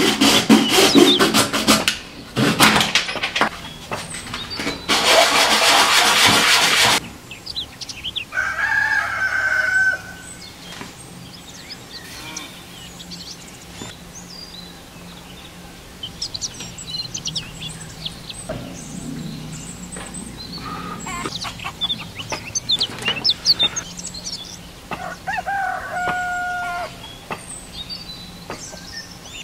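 Hacksaw sawing through a white plastic lamp socket in quick rhythmic strokes, stopping about seven seconds in. Then small clicks from wires being fitted to a rocker switch, with a rooster crowing twice in the background, once about nine seconds in and again near the end.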